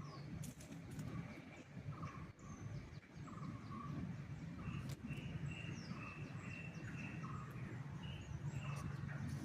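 Several wild birds calling with short chirps and whistled notes, repeated over and over, some sliding downward in pitch. A steady low rumble runs beneath them.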